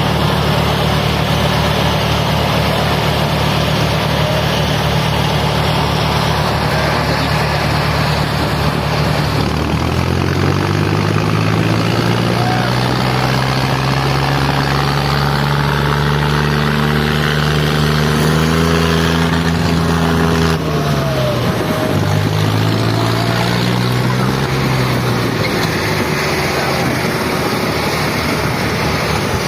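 Diesel tractor engines running hard during a tractor tug-of-war. The engine note is steady at first, then climbs slowly for about ten seconds, drops sharply about two-thirds of the way through, climbs again, and settles back to a steady note near the end.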